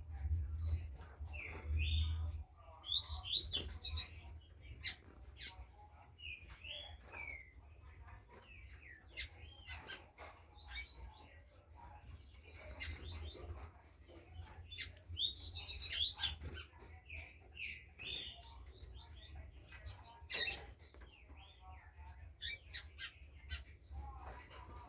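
Green-winged saltator (trinca-ferro) singing: short sliding whistled notes with two loud, dense phrases, about three seconds in and again near the middle, amid scattered sharp clicks and a low steady hum.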